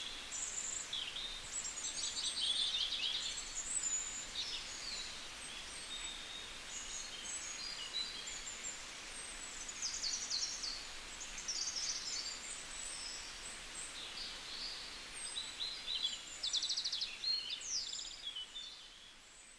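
Several songbirds chirping and calling over a steady outdoor hiss, with short calls and quick trills overlapping throughout; the sound fades down near the end.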